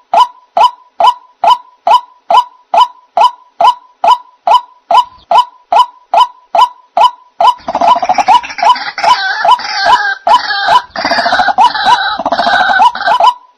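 White-breasted waterhen (ruak-ruak) lure calls: a steady run of short, loud 'kwak' notes, about two a second. Partway through, a dense chorus of overlapping, noisier calls joins in, and it stops shortly before the end while the notes carry on.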